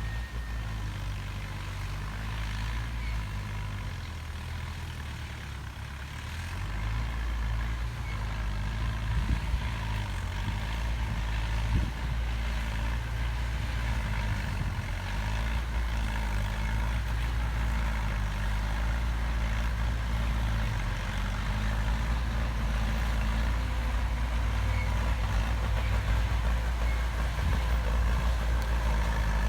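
Heavy diesel construction machine engine running steadily, getting louder about six seconds in, with a few short knocks.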